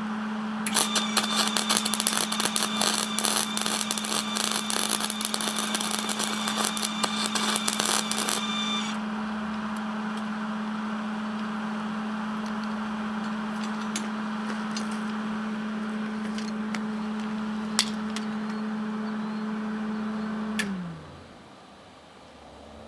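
Wire-feed (MIG) welder arc crackling for about eight seconds while a weld is laid, over the welder's steady hum. A few sharp clicks follow, and near the end the welder is switched off and its hum drops in pitch as it winds down.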